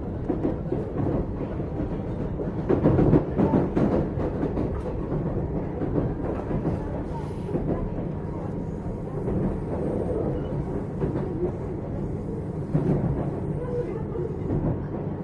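Running sound of a JR 455-series express-type electric multiple unit under way, heard from inside the car: a steady rumble of wheels on rail, with louder clattering about three seconds in and again near the end.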